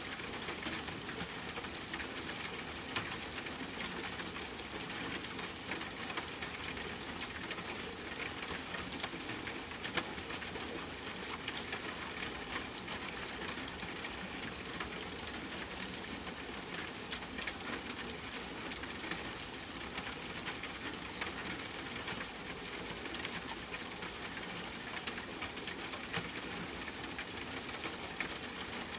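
Steady rain falling, an even hiss dotted with many sharp drop ticks as drops strike a hard surface.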